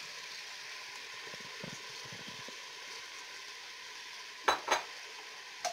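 Meat and sliced red onions sizzling in hot oil in a cooking pot: a steady frying hiss. About four and a half seconds in come two sharp knocks, with a third near the end.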